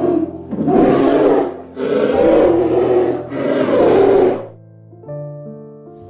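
A big cat giving three long, rasping roars, each over a second, over background music.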